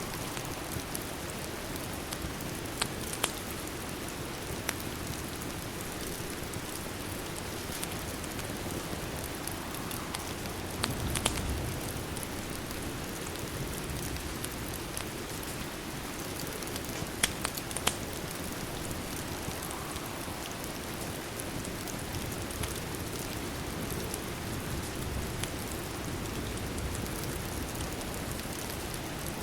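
Steady rain recording with a handful of sharp pops, the crackle of a fireplace mixed in, a few of them about 3, 11 and 17 seconds in.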